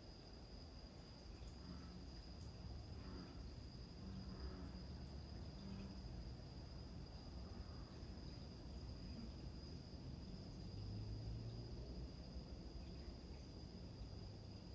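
Crickets chirring steadily in a high, continuous chorus, with a few short, low croaks from bullfrogs now and then.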